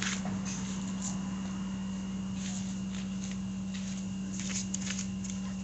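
A steady low electrical hum, with scattered light clicks and scrapes of hand work on the motorcycle's brake parts.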